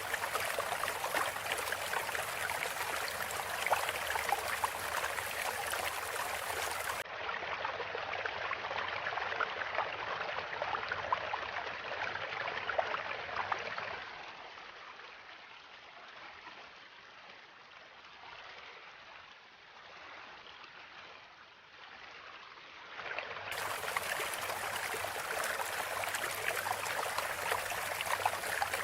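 Flowing-water recording: a steady trickling stream. About seven seconds in it turns duller. Midway it drops much quieter for about ten seconds, then comes back at full level and brightness.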